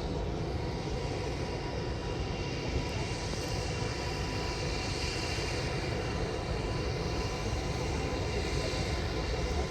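Jet airliner engines running: a steady rush of engine noise with a faint, steady whine.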